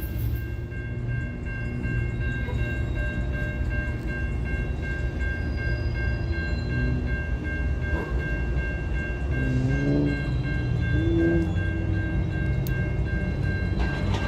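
Norfolk Southern freight train passing, its diesel locomotives and cars making a steady deep rumble, with a steady high-pitched tone over it.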